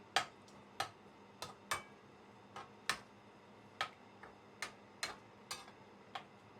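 Coconut milk in a pan over a high flame, spitting and popping: about a dozen sharp, irregular pops, roughly two a second.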